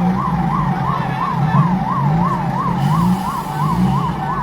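Emergency vehicle siren sounding a fast yelp, its pitch sweeping up and down about three times a second.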